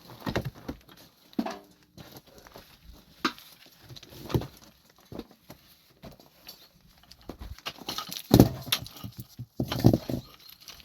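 Irregular knocks and thuds, the two loudest near the end.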